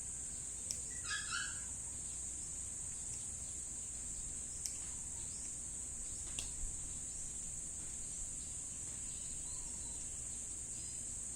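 Steady high-pitched insect chorus, such as crickets, shrilling without a break. About a second in comes a brief animal call, and a few sharp clicks fall here and there.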